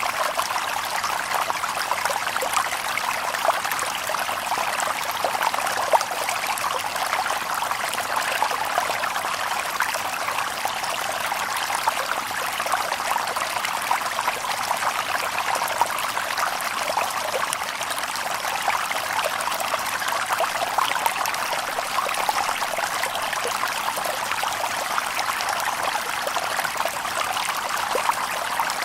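A shallow stream babbling steadily over stones, with small, constant splashes and trickles.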